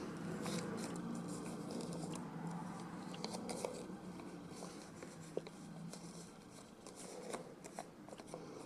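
Faint rustling and crinkling of stiff paper from an old red envelope being folded and pressed flat by hand, with scattered small ticks.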